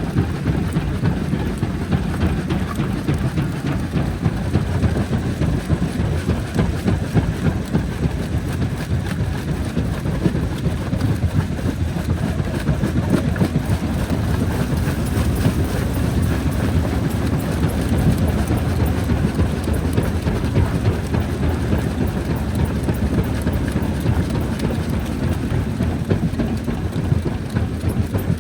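Jaw crusher running and breaking rock: a continuous heavy low rumble with dense, irregular rattling and knocking.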